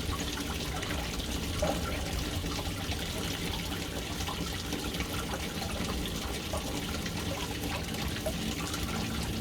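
Water running steadily into a household water tank through its float valve inlet, a continuous splashing trickle as the tank fills.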